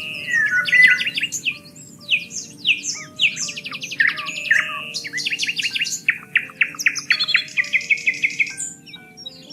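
Several songbirds singing at once in a dense chorus: fast trills, quick repeated down-slurred chirps and buzzy phrases overlapping one another, over a steady low background hush.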